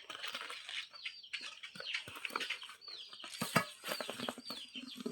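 Chicks peeping over and over in short, high, falling cheeps, mixed with scattered clicks and rustling.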